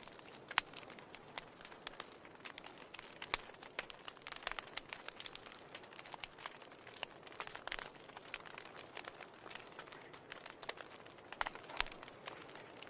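Wood fire burning in a fireplace: irregular crackles and sharp pops over a soft steady hiss, with a few louder pops scattered through.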